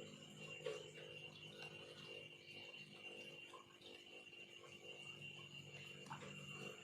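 Near silence: a faint steady hum and high whine of room tone, with a few soft ticks.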